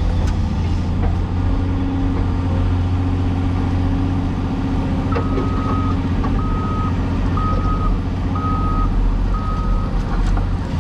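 Cat 336E excavator's diesel engine running steadily, with a backup alarm starting about halfway through and beeping five times, about once a second.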